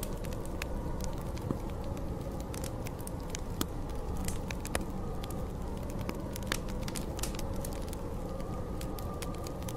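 A wood fire crackling, with frequent sharp pops, over the steady rush of snowstorm wind.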